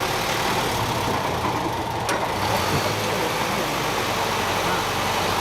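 An engine running steadily at idle, with a low hum, and one sharp click about two seconds in.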